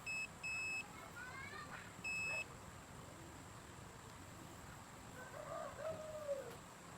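Three short electronic beeps: two close together at the start and a third about two seconds in. A bird calls faintly twice, the clearer call near the end.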